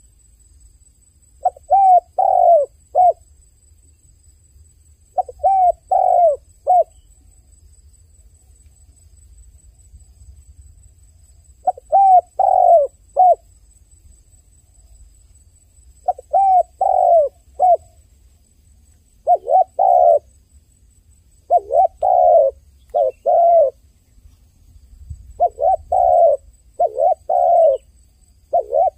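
A dove cooing in repeated phrases of three or four short notes, with pauses of a few seconds between phrases that shorten towards the end.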